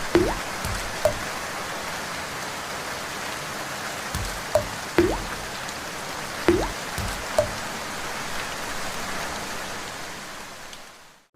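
Steady rain falling, with several louder drips, some with a short rising plink like drops landing in water. The rain fades out near the end.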